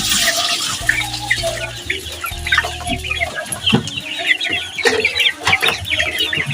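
A flock of six-week-old laying pullets clucking and peeping constantly, many birds calling over one another, with a few sharp knocks mixed in.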